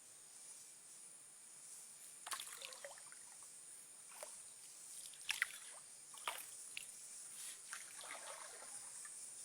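Paddle dipping into river water from a dugout canoe, with soft splashes and drips at irregular intervals about a second apart. A steady high-pitched insect buzz from the rainforest runs underneath.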